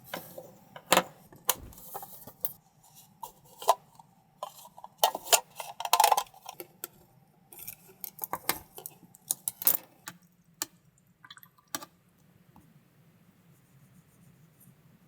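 Dishes and utensils being handled: a run of irregular clinks and clatters that stops about twelve seconds in.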